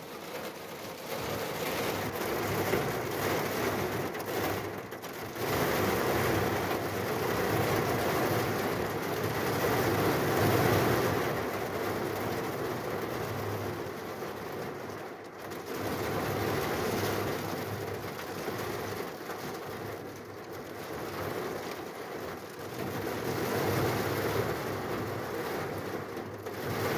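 Heavy rain hammering down on the roof of a small camper van, heard from inside as a dense, steady drumming that swells and eases every few seconds.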